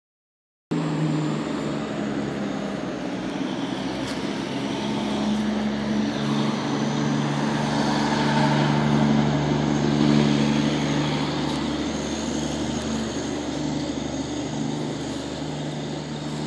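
An engine running steadily, growing louder toward the middle and then easing off a little.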